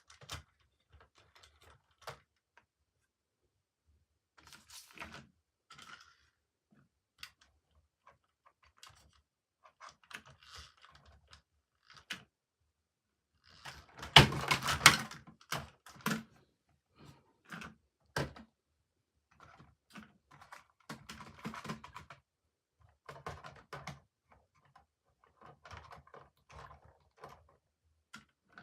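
Toy trains and their packaging handled during unboxing: scattered clicks, knocks and rustles with short silent gaps, and a louder cluster of knocks about halfway through.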